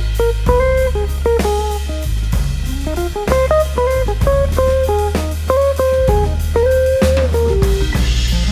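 Instrumental band music: a guitar plays a melody of short notes over bass guitar and a drum kit.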